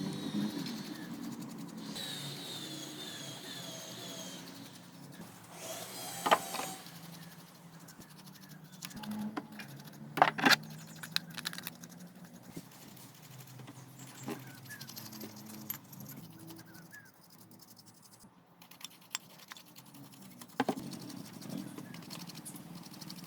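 Scattered metallic clinks and clicks of metal parts and tools being handled, with a few sharper clinks about six seconds in and a cluster of them around ten seconds in.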